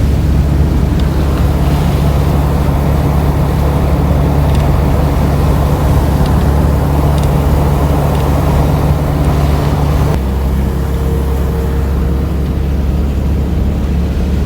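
A van's engine and road noise heard from inside the cab while driving, a loud steady rumble. The engine note shifts about ten seconds in.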